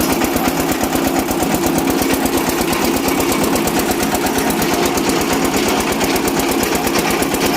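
Eicher diesel engine of a mini hydraulic borewell rig running steadily under load while drilling, a fast even chugging of about a dozen beats a second over a steady hum.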